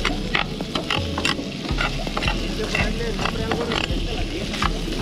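Diced ham sizzling in a ridged frying pan while a metal spoon stirs it, scraping and clicking against the pan about two to three times a second.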